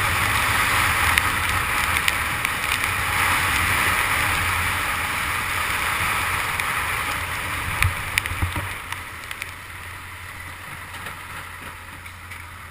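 Heavy rain and rushing air hissing on the camera of a Honda CG 150 Titan motorcycle in motion, with a low steady engine hum underneath. A few knocks come about eight seconds in, and the hiss then fades away.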